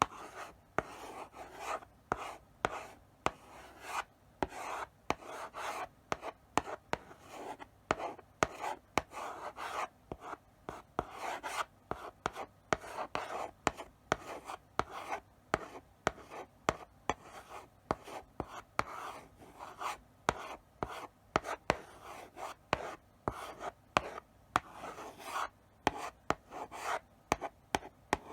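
Chalk writing slowly on a blackboard: a steady succession of short scratchy strokes, many starting with a sharp tap as the chalk meets the board.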